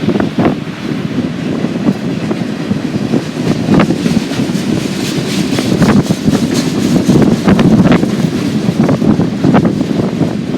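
Freight train rolling past with irregular clanks and clicks, under heavy wind buffeting on the microphone.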